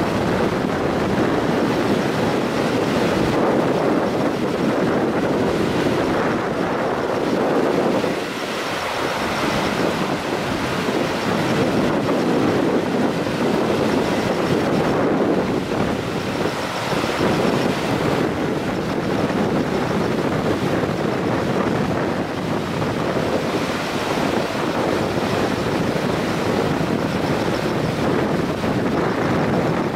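Steady rush of a river in flood after a typhoon, with wind buffeting the microphone.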